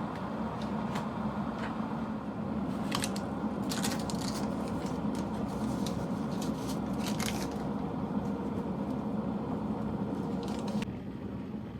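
A small motor running steadily with scattered sharp clicks over it, stopping about a second before the end.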